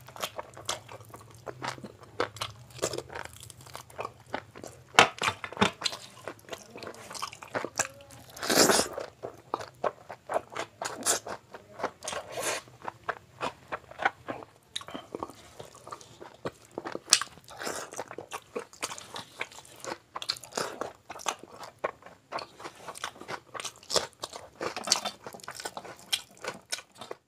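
Close-miked eating of a chicken curry leg piece and biryani: rapid wet chewing, biting and crunching clicks throughout, loudest in a burst about nine seconds in.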